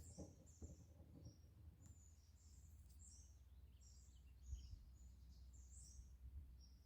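Faint birdsong: short high chirps and twitters, one after another, over a low steady rumble.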